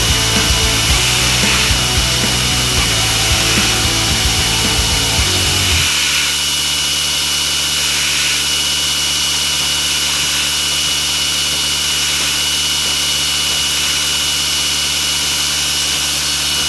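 Belt grinder running with a steady whine as small steel cubes for a mosaic damascus billet are held by hand against the belt and ground.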